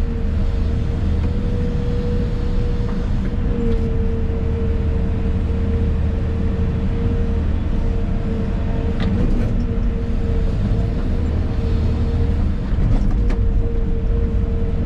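Excavator's diesel engine and hydraulics running steadily, heard from inside the cab: a low engine rumble under a steady high whine, with a few faint knocks.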